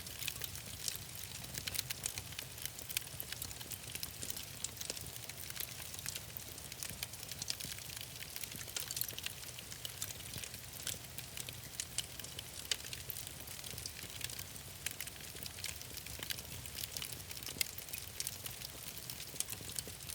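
Wood fire burning in a fireplace, with irregular crackles and pops over a steady low rumble of the flames.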